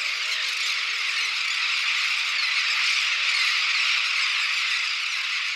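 Dense, steady chorus of a nesting seabird colony, thousands of Heermann's gulls and elegant terns calling at once.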